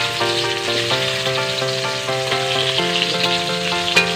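Onion, garlic and ginger sizzling steadily in hot oil in a wok as they are sautéed, with background music playing over it.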